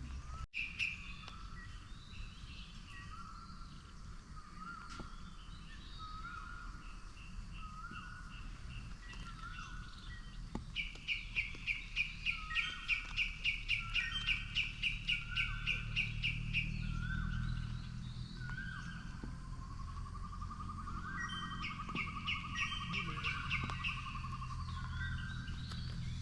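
Forest birds calling: one repeats a short note about once a second while another gives a fast, pulsing trill, first for about six seconds midway and again briefly near the end. A steady low rush of flowing water runs underneath.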